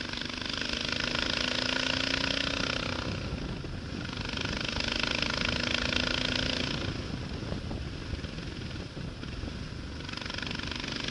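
Motorcycle engine running steadily under way, with wind and road noise that grows louder twice for a few seconds each time.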